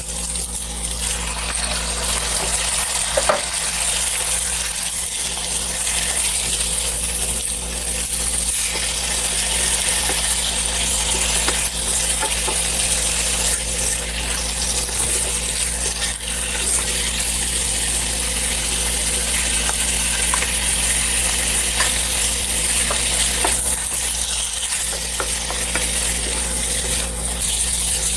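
Chicken and chicken liver sizzling in hot oil in a nonstick frying pan, stirred with a spatula that scrapes and clinks now and then against the pan. A steady low hum runs underneath.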